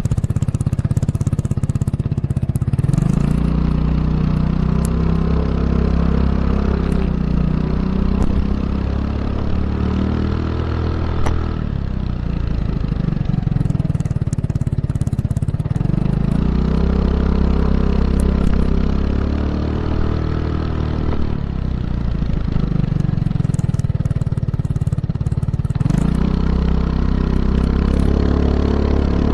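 Kymco X-Town scooter's single-cylinder engine through an Arrow Urban aftermarket exhaust with its dB killer fitted, heard right at the silencer while riding. It pulls up through the revs three times, rising in pitch each time, and drops back as the throttle closes in between.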